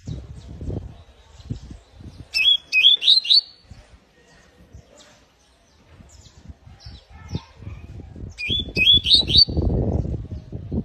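Pet canary chirping: two short runs of four quick rising chirps, several seconds apart. Scattered low knocks and rustling sound between and under them, loudest near the end.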